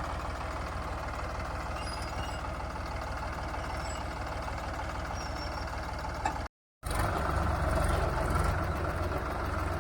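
Tractor engine running steadily at idle, a low even hum. There is a brief gap in the sound about six and a half seconds in, after which the engine comes back a little louder.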